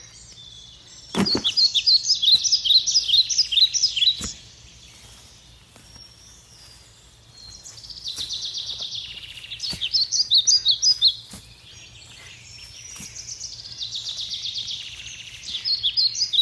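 A songbird singing three long phrases of rapid, repeated high notes, with short pauses between them. A few dull thumps sound in between.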